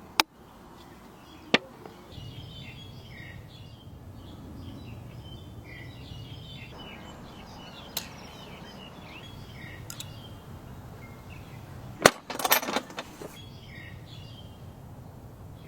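Small birds chirping on and off over a low steady outdoor background, with a few sharp clicks and a short clatter of clicks about twelve seconds in.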